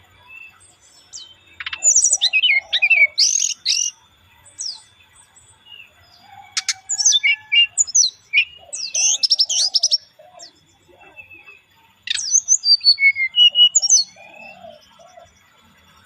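Brown-chested jungle flycatcher (SRDC) singing: bursts of quick, high chirps and warbling phrases in three main spells, with a faint steady high whine behind them.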